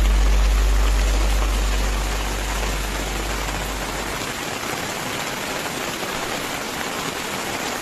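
Heavy rain and rushing floodwater: a steady, even hiss of water. A low steady hum lies under it for the first half and stops about four seconds in.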